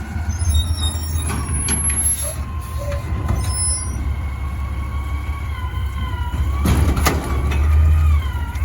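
Garbage truck's diesel engine running with a low rumble and a whine that bends up and down in pitch, with a few short sharp noises, the largest about seven seconds in.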